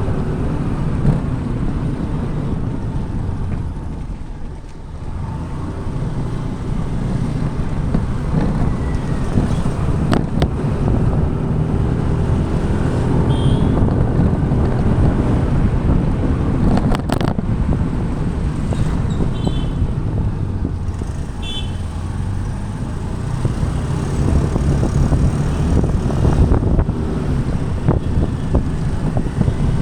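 Motor scooter riding through traffic: its small engine running steadily under road and wind noise, with a few short high-pitched beeps near the middle.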